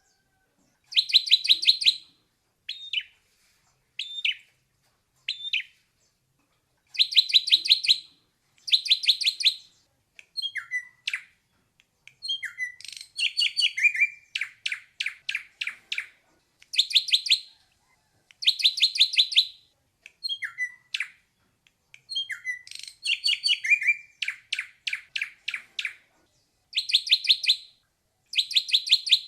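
Ashy drongo singing: phrases of rapid, trilled notes about a second long alternating with single sliding whistles, repeated with short pauses between them.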